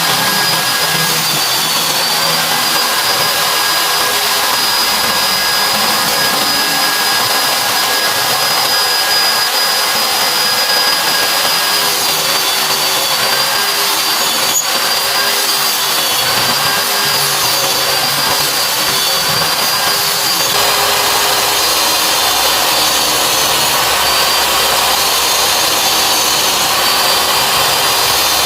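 Electric circular saw motor running steadily with a high whine over a rough grinding hiss, powering the sharpening of a circular saw blade's teeth.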